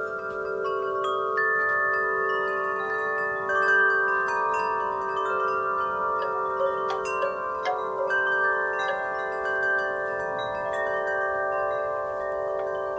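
Wind chimes ringing in the breeze, their tubes struck at irregular moments and ringing on in long, overlapping steady tones.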